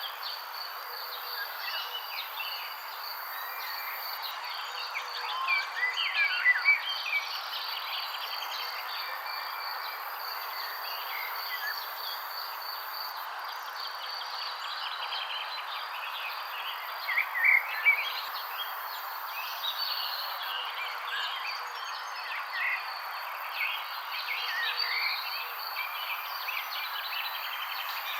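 Birds chirping and calling over a steady high insect trill and a soft background hiss, with louder clusters of chirps about six seconds in and again around seventeen seconds.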